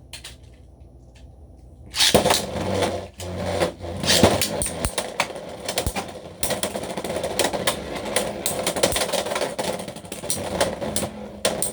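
Two Beyblade X spinning tops are launched about two seconds in, then spin and clash in a plastic stadium. A steady whir runs under rapid sharp clicks of collisions.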